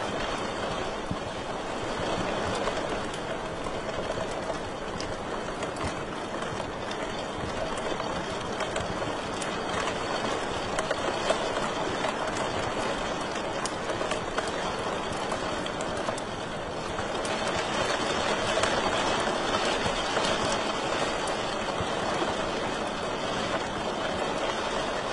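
Wood fire burning in a fireplace: a steady rushing noise with frequent small crackles and pops, one sharper pop about 11 seconds in.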